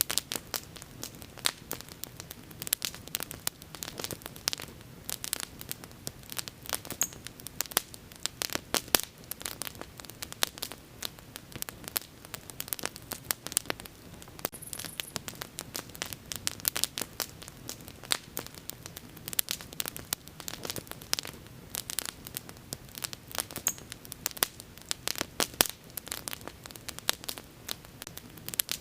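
Wood fire crackling and popping: many sharp, irregular pops over a soft steady hiss and a low rumble of flames.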